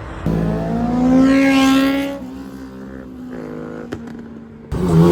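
Car engines revving: one climbs in pitch about a second in, then settles to a steadier, quieter drone, and a loud rev cuts in abruptly near the end.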